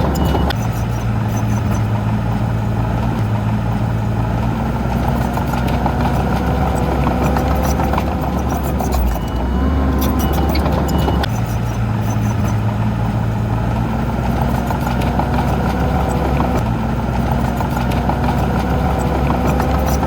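Heavy diesel earthmoving machinery running steadily with a deep engine hum. The same stretch of sound seems to repeat about every ten seconds.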